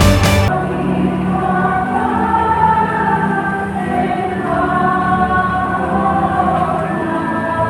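Background music: a choir singing slow, sustained chords, which comes in abruptly about half a second in as a beat-driven track cuts off. No rain is heard.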